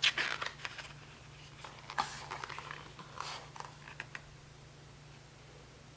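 Paper rustling and soft taps as a picture book's pages are handled and turned, in a few short bursts over the first four seconds, then only a steady low hum.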